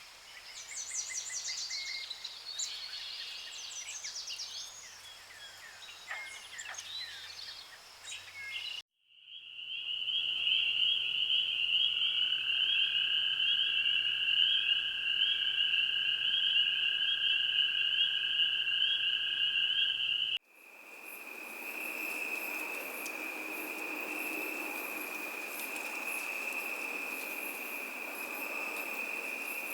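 Birds calling with varied chirps and whistles, then, after an abrupt cut, a steady high-pitched pulsing trill from a calling animal chorus, joined by a lower steady tone. After a second cut, another steady high trill over a hiss.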